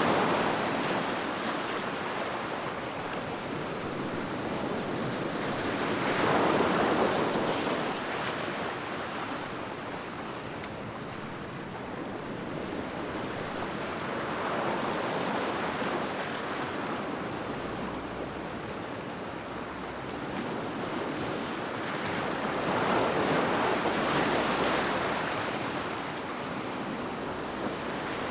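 Sea waves breaking and washing on the shore, the surf swelling and falling back every several seconds, with the loudest breaks near the start, about a quarter of the way in, and again near the end.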